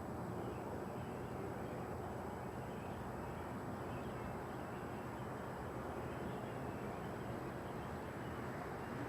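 A steady low roar of unidentified origin, unchanging throughout.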